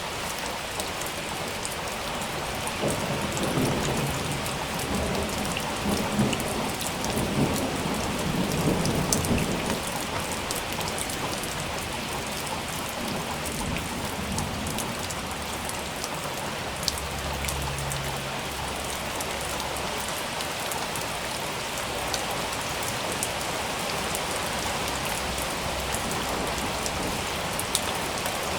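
Steady rain falling, with scattered sharp drop ticks, and thunder rolling in a low rumble a few seconds in, with a weaker rumble near the middle.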